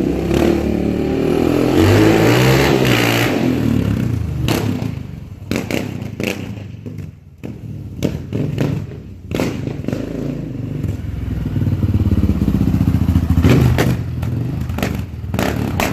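Honda TRX700XX ATV's single-cylinder engine, breathing through a newly fitted Big Gun Eco Series exhaust, being revved up and let back down twice. In the quieter stretch between the revs there are several sharp knocks.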